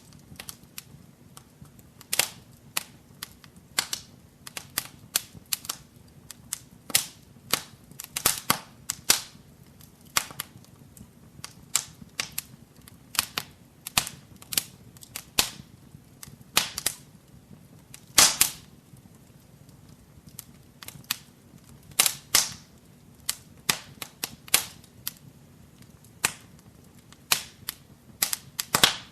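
Wood fire crackling in a fireplace: irregular sharp pops and snaps, sometimes in quick clusters, with a few louder pops scattered through, over a faint low background of the burning.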